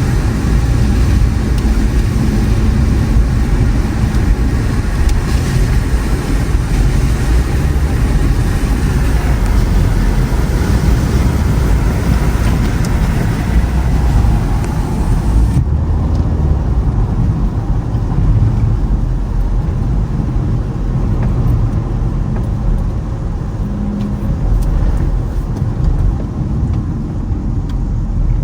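Toyota Camry driving on a snowy, icy road: a steady low rumble of road and tyre noise with engine underneath. About halfway through, the higher hiss drops away suddenly, leaving mostly the low rumble.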